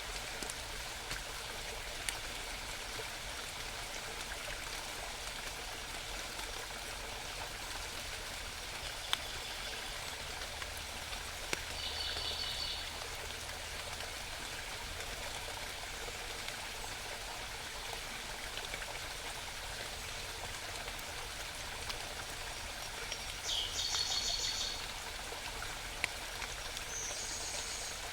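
A small mountain stream babbling steadily over rocks, with short high bird songs breaking in three times: once midway and twice near the end.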